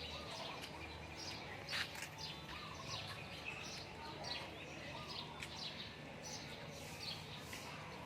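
Small birds chirping and twittering, with many short, quick, falling calls in constant succession over a steady low background hum.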